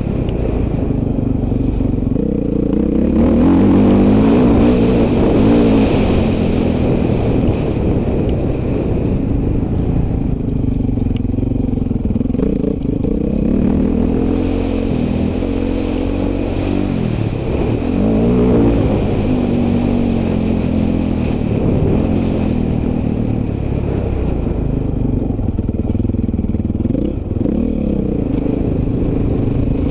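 Dirt bike engine running hard, revving up and down over and over, loudest about three to six seconds in.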